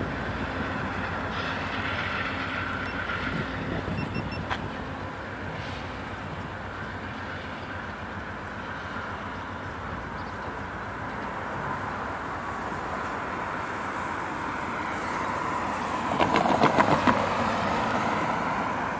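VIA Rail passenger train rolling away along the tracks, its wheels clicking over rail joints, with a louder run of clicks near the end.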